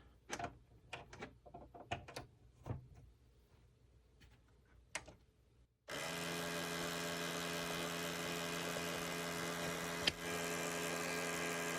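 Pioneer CLD-59 laserdisc player: a few light clicks and knocks, then about six seconds in a motor starts with a sudden steady whirring hum. A single sharp click comes near the end. This is the player running with its laser sled stuck; the fault is blamed on a broken laser sled motor holder, and the owner reported a grinding or rattling noise from the gears.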